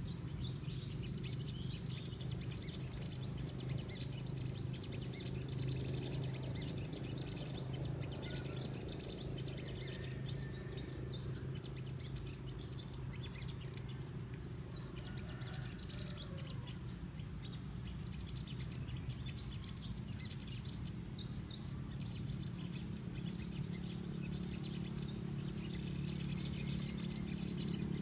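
Olive-backed sunbird chirping: a long run of quick, high, thin chirps, with two louder flurries, one a few seconds in and one about halfway through. A steady low hum runs underneath.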